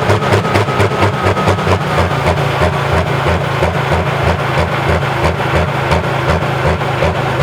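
Heavy diesel pulling-tractor engine idling with a steady, lumpy beat, about four to five pulses a second, holding the same speed throughout.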